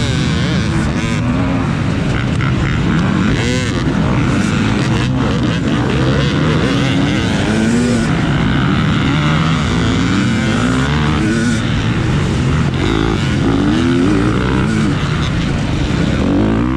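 250-class off-road motorcycle engines racing at full throttle, the revs repeatedly climbing and dropping as the bikes shift and work the throttle.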